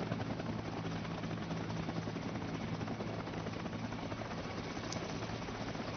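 Helicopter in flight: steady rotor and turbine noise with a fast flutter over a low, even drone.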